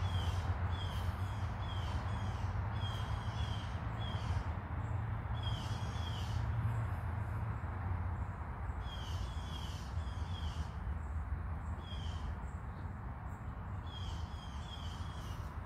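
A bird calling in series of three to six short, downward-sliding notes, with pauses of a few seconds between series, over a steady low hum.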